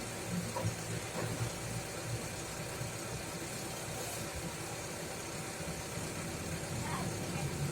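2005 Daihatsu Taruna FL's engine idling steadily as it is warmed up, heard as a low, even hum.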